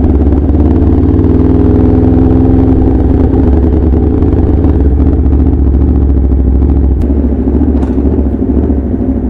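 2017 Aprilia RSV4 RF's V4 engine running through an SC Project S1 slip-on exhaust, a steady note that rises slightly early on, holds, then eases off near the end.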